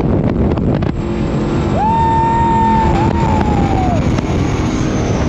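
Cigarette 42X race boat running at high speed, around 90 mph: a loud, steady rush of engine, wind and water. About two seconds in, a clear high tone rises, holds for about two seconds and then falls away.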